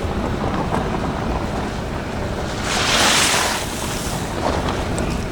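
Wind buffeting the microphone with a steady low rumble, and a louder rushing gust about midway through.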